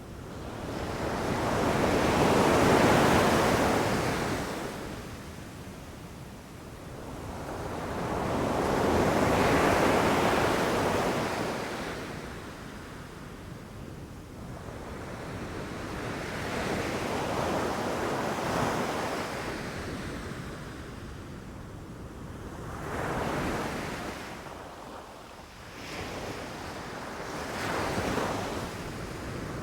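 Sea waves breaking on a beach: five swells of surf several seconds apart, each building to a rush and then washing back. The first two are the loudest.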